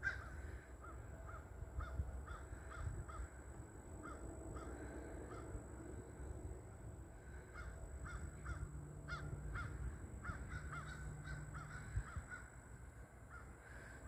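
Faint birds calling from a distance: runs of short, repeated calls, two or three a second at times. A faint low drone runs underneath from about eight to eleven seconds in.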